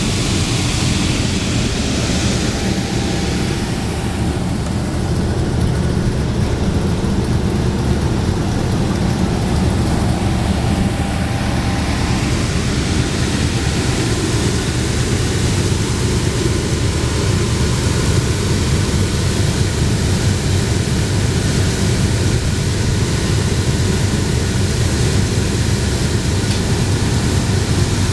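Lennox KHA150S4B commercial rooftop air conditioner running in cool mode: a loud, steady rush of fan air over a low hum.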